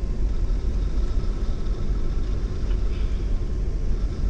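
Steady low rumble of an oil/chemical tanker under way, heard from inside its bridge: engine and hull vibration carried through the ship's structure.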